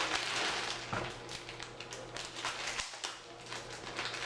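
Packaging crinkling and rustling in the hands, a quick irregular crackle, as a wrapped hair bundle is handled and put back away.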